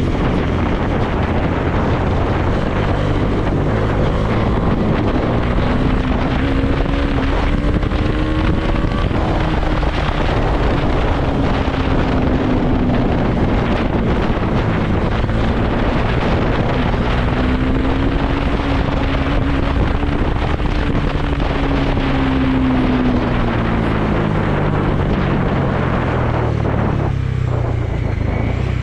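Bajaj Dominar 400's single-cylinder engine running while riding, its note rising and falling twice with throttle and dropping away near the end, under a heavy rush of wind on the microphone.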